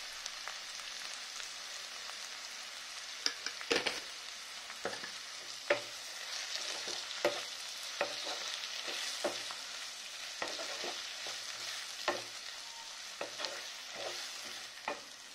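Chopped tomatoes and onions frying in oil in a nonstick wok, a steady sizzle, while a wooden spatula stirs and scrapes through them, knocking against the pan in frequent short clicks, with one louder knock about four seconds in.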